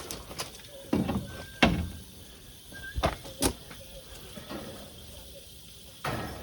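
Hands and tools working on a water heater's fittings: a string of sharp knocks and clunks, about seven in all, with a couple of brief high squeaks between them.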